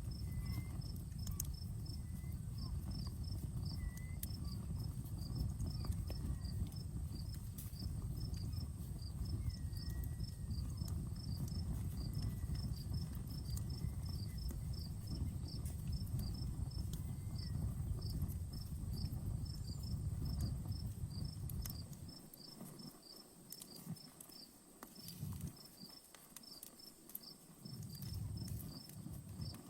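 Outdoor campfire crackling with scattered small pops, while crickets chirp in a steady, even rhythm with a continuous high insect trill behind them. A low rumble underneath dies away for several seconds near the end.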